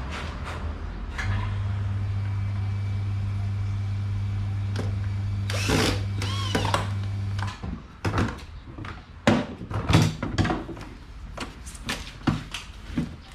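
Electric fan motor giving a steady hum that switches on about a second in and cuts off suddenly after about six seconds, with a brief squeak along the way. Then come scattered clicks and knocks of plastic fan parts being handled and fitted back together.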